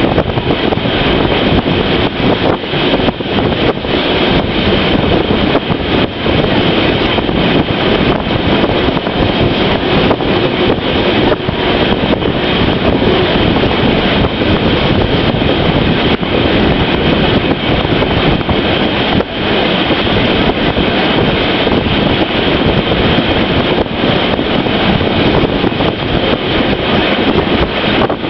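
Railway train running steadily: a continuous, loud rumble with fine rail clatter throughout.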